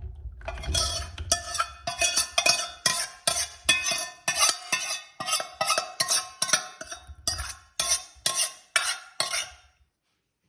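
A spoon scraping and knocking leftover pasta sauce out of a pot into a storage container, about two to three strokes a second with a slight ring, stopping shortly before the end.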